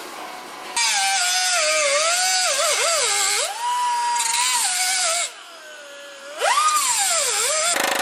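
High-speed power tool working on a car's rusted sheet-metal body, starting about a second in, pausing briefly past the middle, then running again. Its whine sags in pitch as it bites into the metal and climbs back to a steady top speed when it runs free.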